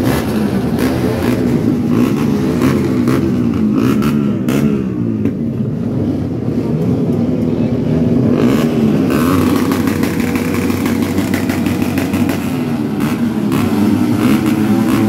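Loud motorcycle engines being revved over and over, their pitch swinging up and down in a continuous din.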